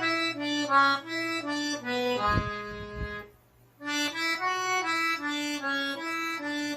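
Accordion playing a slow melody one note at a time: the second part of a forró tune, practised as a lesson passage. The phrase ends about two seconds in on a held chord with two low bass notes under it, breaks off briefly, then starts again just before the four-second mark.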